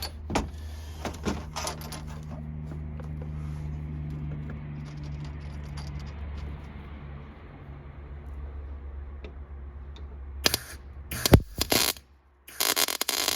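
Metal parts clinking as they are handled over a steady low hum, then near the end a few short, loud bursts of MIG welding as pieces are tack-welded to the bolt body.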